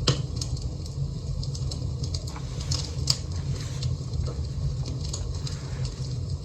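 Scattered light clicks and taps over a steady low hum, with a sharper click near the start and another about three seconds in.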